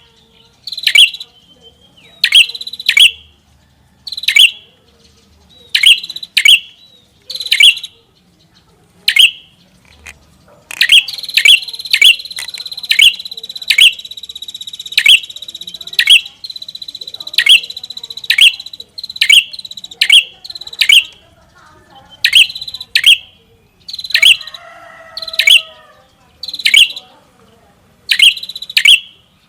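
Prenjak kepala merah singing loudly: a string of sharp, high calls that sweep downward, often in quick pairs about once a second, with a steady high trill running under them for several seconds from about a third of the way in.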